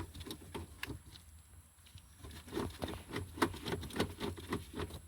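Socket ratchet clicking in quick, uneven runs with light metallic knocks, busiest in the second half, as a 10 mm mounting bolt on the radio and climate-control console is worked.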